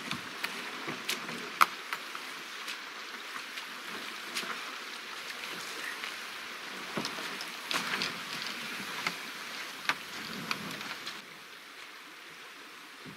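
Water splashing and trickling around a canoe on the water, with many small sharp ticks and drips throughout. The water sound drops somewhat about eleven seconds in.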